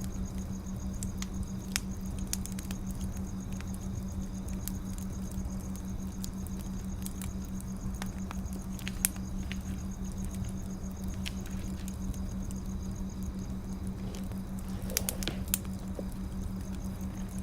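Wood fire crackling, with irregular sharp pops and snaps and a small burst of them near the end, over a steady low hum.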